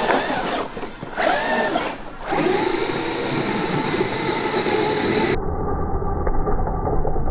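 Traxxas X-Maxx RC monster truck running, its brushless electric motor giving a whine that changes pitch at first and then holds steady, over a low rumble.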